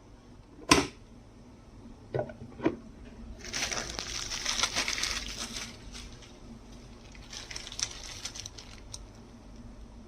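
Handling noises: a sharp click, then two light knocks, then a couple of seconds of crinkly rustling, with a fainter patch of rustling and a small tap later.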